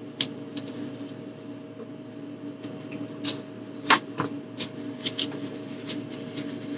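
Containers and items being handled: a scatter of short clicks and knocks, the loudest about four seconds in, over a steady hum.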